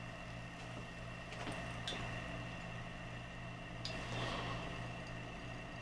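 Bunn 10-cup coffee brewer starting a brew: a steady low hum under a soft hiss, with a few faint clicks and taps, one about a second and a half in, one about two seconds in and one near four seconds.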